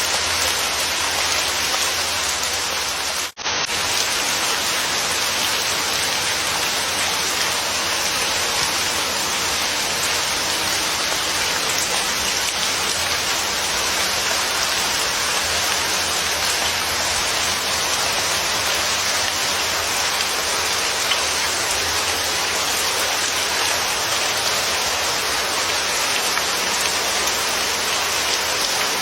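Steady rain falling as an even hiss, with a momentary dropout about three seconds in.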